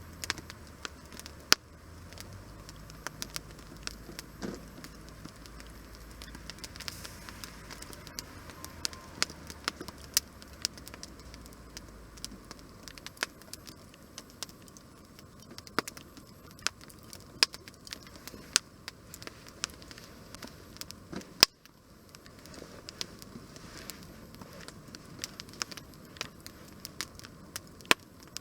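Wood fire crackling, with irregular sharp pops and one louder pop about two-thirds of the way through.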